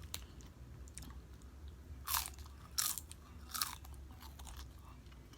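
Nacho tortilla chips crunching as they are bitten and chewed close to the microphone, with three loud crunches about two, three and three and a half seconds in and fainter chewing between them.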